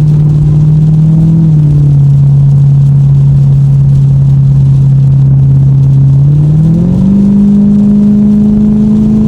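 Lexus car engine running on the move, its note dipping slightly about a second and a half in, then climbing as the car speeds up about seven seconds in and holding at the higher pitch.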